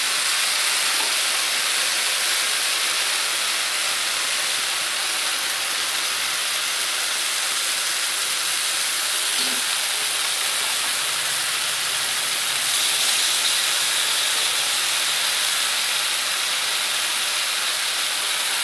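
Teriyaki-marinated paneer slabs sizzling in oil on a very hot iron tawa, a steady hiss that grows a little louder about two-thirds of the way in.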